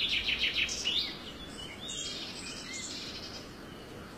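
Birds chirping outdoors: a fast pulsing trill in the first second, then a few scattered short chirps, over a faint steady background hiss.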